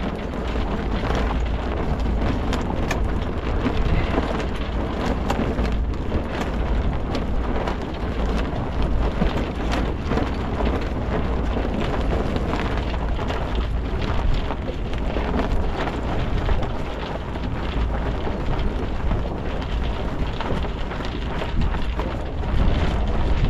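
Wind buffeting the microphone aboard a sailboat under way: a steady rushing noise with a deep rumble and scattered short clicks.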